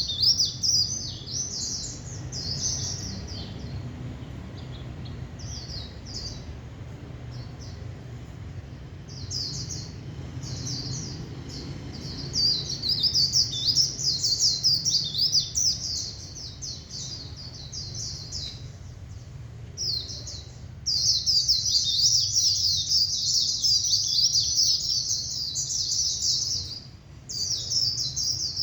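White-eye singing its rapid, high-pitched twittering song in long unbroken runs, thinner in places, with a couple of short pauses. A steady low hum runs underneath.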